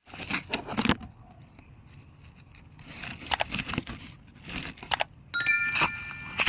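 Irregular rustling, crinkling and clicking, like things being handled, with a short metallic ring that starts suddenly about five seconds in and fades away.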